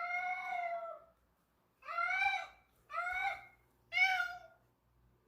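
A cat meowing four times in a high voice: one long meow, then three shorter ones about a second apart.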